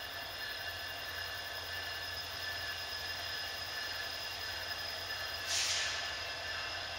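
Approaching train: a steady high-pitched wheel squeal over a low rumble, with a short hiss about five and a half seconds in.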